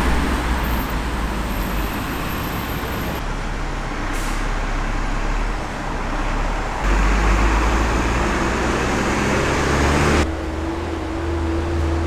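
Steady road traffic noise with deep rumble, changing abruptly about three, seven and ten seconds in.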